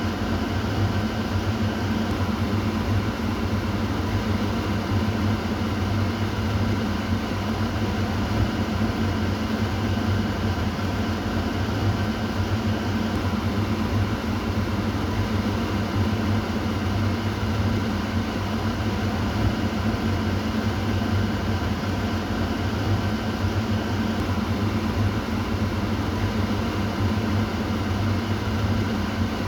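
Kitchen exhaust fan running steadily: an even rushing of air over a low motor hum.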